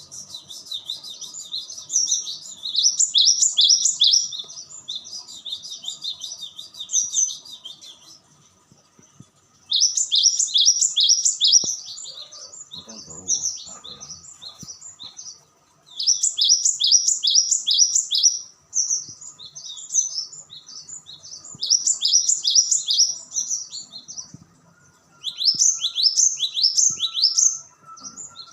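Cinereous tit (gelatik batu) song: long bursts of rapid, high, repeated chattering notes with brief pauses between them.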